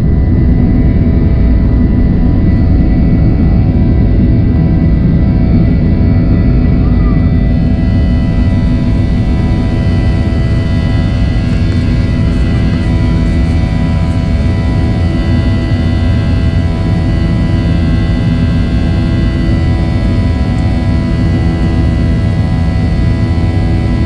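Cabin noise of a Boeing 737-800 in flight, heard from inside the cabin: its CFM56 jet engines and airflow make a loud, steady rumble with several steady whining tones over it.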